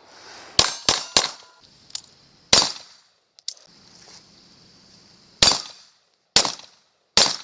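Seven gunshots fired while walking, each with a short echo tail: three in quick succession about half a second in, then four single shots spaced one to three seconds apart.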